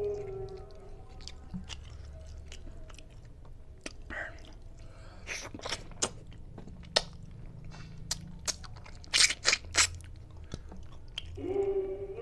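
Close-up mouth sounds of a person eating tilapia head and rice by hand: wet chewing, lip smacks and sucking, with a run of loud smacks about nine seconds in.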